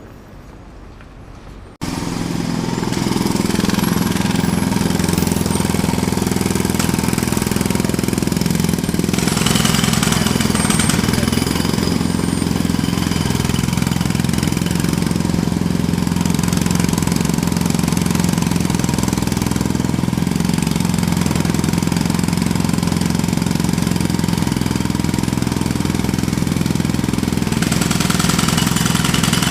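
A jackhammer starts abruptly about two seconds in and then hammers steadily and loudly without a break.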